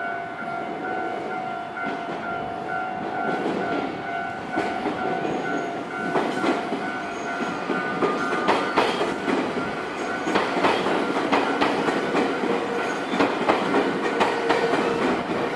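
A train on the JR Kisei Main Line passing over a level crossing, its wheels clacking over the rail joints, with the clacks coming thicker and louder from about four seconds in. A level-crossing warning bell rings with a steady repeating tone in the first part.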